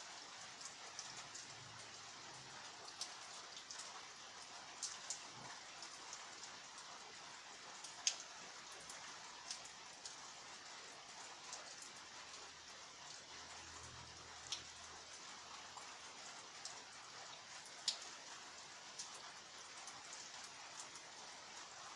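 Steady rain falling: a soft, even hiss with scattered sharp drops striking a surface, two of them clearly louder than the rest.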